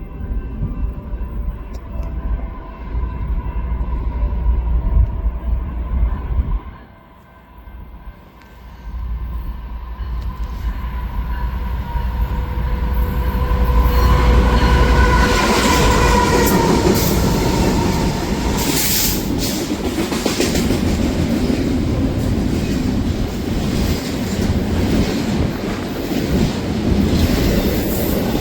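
A train approaching and passing close by: the sound builds from about ten seconds in into a loud, steady run of wheels on the rails. Some high steady tones show a few seconds after it grows loud.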